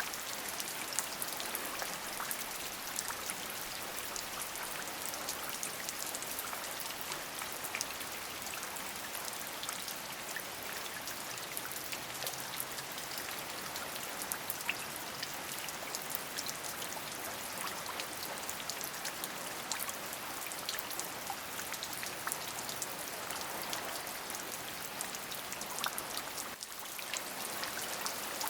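Steady rain, a dense patter of individual drops over an even hiss, with a brief dip in level near the end.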